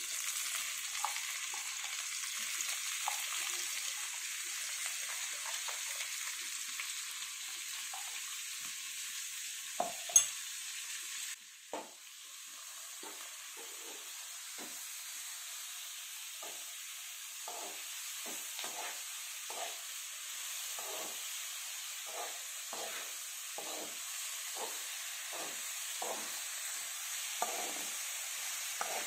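Jackfruit pieces frying in coconut oil with onions in a pan, a steady sizzle, with a spoon stirring and scraping the pan again and again, more often in the second half. A sharp knock about ten seconds in; the sizzle drops off suddenly soon after and slowly builds again.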